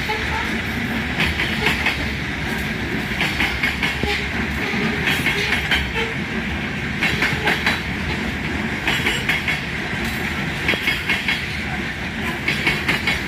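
Freight train cars rolling past. Their wheels clack over the rail joints in clusters about every two seconds, over a steady rumble.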